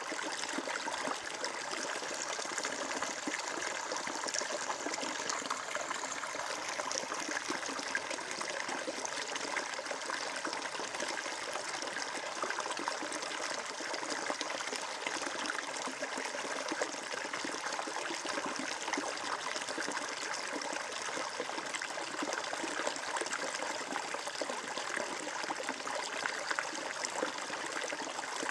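Water flowing and trickling steadily in a stream, a continuous even rush with small splashy fluctuations.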